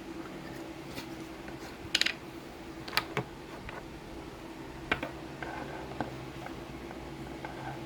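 A handful of sharp clicks and taps, a small cluster about two seconds in and single ones about three, five and six seconds in, over a steady low hum.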